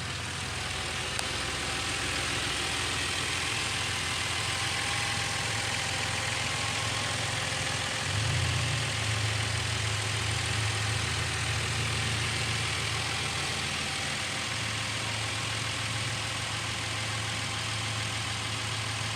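Subaru Outback engine idling steadily, a little louder from about eight seconds in.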